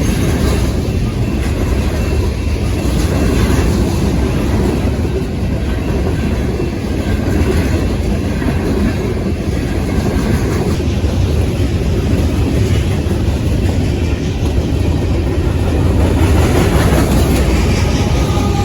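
A train rolling past close by: a steady, loud rumble of wheels on the rails.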